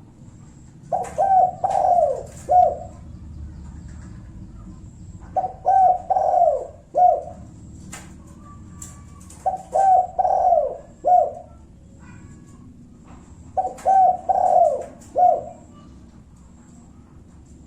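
Spotted dove (tekukur) cooing in its 'kuk satu' style, a lure call used to provoke a rival into answering. Four phrases about four seconds apart, each three quick coos and a final one.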